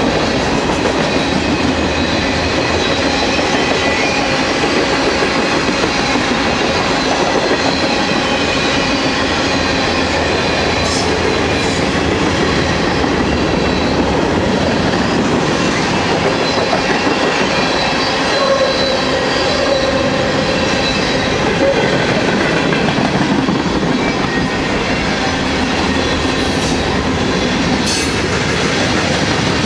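Freight train cars rolling past at close range: a steady rumble and rattle of steel wheels on the rail, with a faint high squeal of wheels and a few brief clinks.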